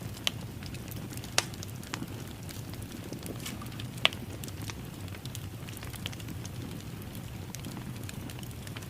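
Fireplace fire crackling: a steady low rumble of burning with scattered sharp pops, the loudest about four seconds in.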